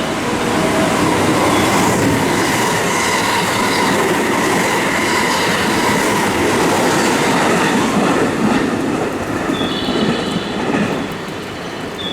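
Electric train passing through a station platform without stopping: a loud, steady rush of wheels on rail with a faint motor whine and some rail-joint clatter, easing off after about ten seconds as it goes by.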